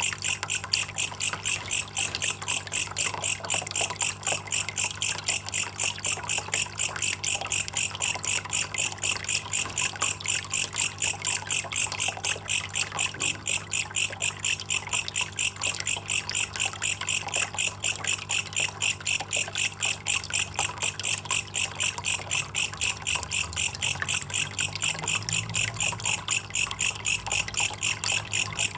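Belalang kecek (a katydid) calling in a fast, steady train of high-pitched chirps that repeats without a break, over a low steady hum.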